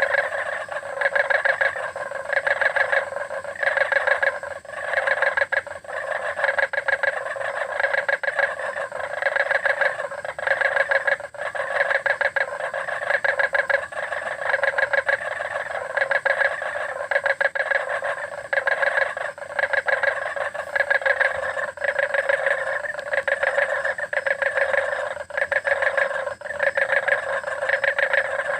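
Frogs calling in a dense chorus at a pool, their croaking calls overlapping and swelling about once a second. A faint, steady, high-pitched tone runs underneath.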